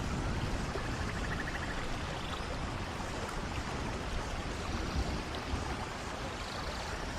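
Steady rushing of a waterfall with rain falling, an even wash of water noise. A faint, rapidly pulsed chirping is heard about a second in.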